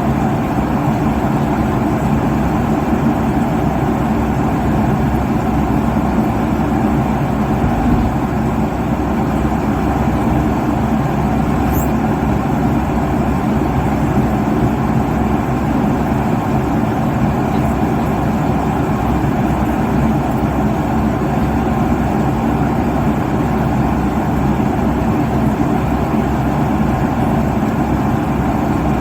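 Steady airliner cabin noise at cruise: a constant low rumble and rush of engines and airflow, with a faint steady hum of tones underneath.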